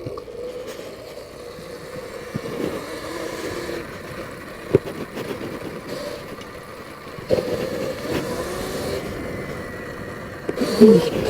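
Sur-Ron electric dirt bike being ridden: its electric motor and chain drive run with a steady whine, a single sharp click about five seconds in, and louder running in the last few seconds.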